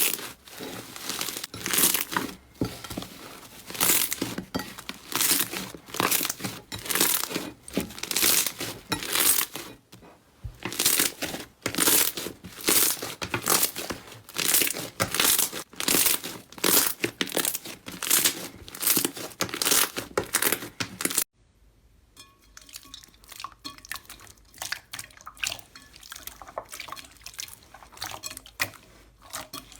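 Slime squeezed and pressed by hand, giving sharp crackling, crinkly pops about two a second, the sound of crunchy slime. About 21 seconds in it cuts off abruptly to a much quieter, softer sound of slime being handled.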